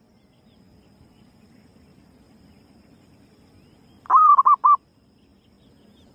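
Female zebra dove (perkutut) cooing once about four seconds in: a rising first note and then three quick coos. This is a lure call meant to draw other perkutut in.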